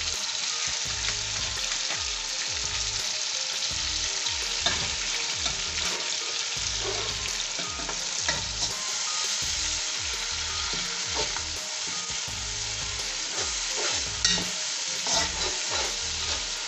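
Chopped tomatoes and fried onions frying in hot oil in a deep pot, a steady sizzle, with a spoon stirring and now and then knocking against the pot.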